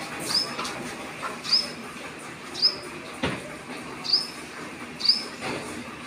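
A small bird giving a short, high chirp about once a second, five times, with one sharp knock about halfway through, over steady background noise.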